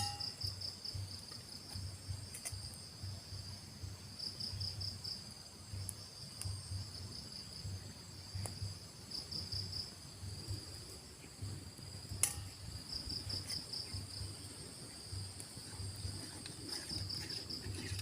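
Forest insects chirping: a steady high trill with repeated short trains of rapid pulses every second or two. A faint low pulsing runs underneath, and a single sharp click comes about twelve seconds in.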